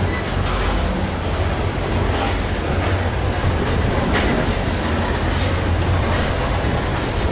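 Freight train of covered hopper cars rolling past close by: a steady loud rumble of steel wheels on rail, with repeated clicks as the wheels cross rail joints.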